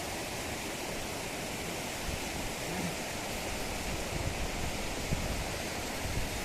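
Steady rush of flowing water, with wind buffeting the microphone in low gusts from about two seconds in.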